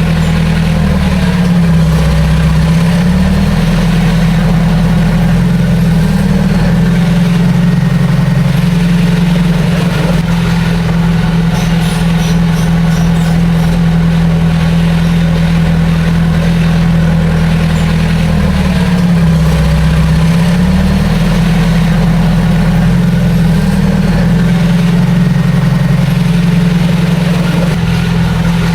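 Heavy earthmoving machine's diesel engine running steadily and loudly. Its note drops briefly and recovers twice, once early on and once about two-thirds of the way through.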